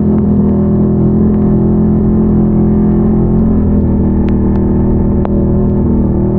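Can-Am Renegade ATV's V-twin engine running at steady revs, close to the microphone, with a slight change in pitch about three and a half seconds in. A few sharp clicks sound over it in the second half.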